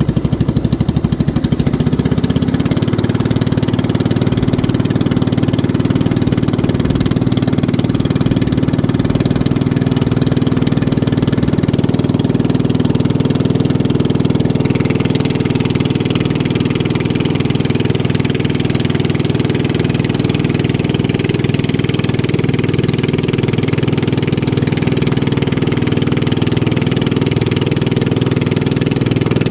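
A boat engine running steadily at a constant pitch under way. About halfway through, a hiss grows louder over it.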